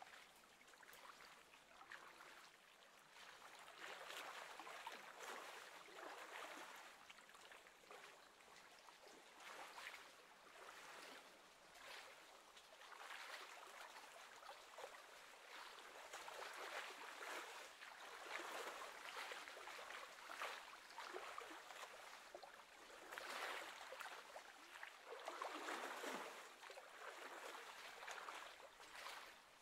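Faint lapping of small wind-driven waves on the lake edge, swelling and fading every few seconds.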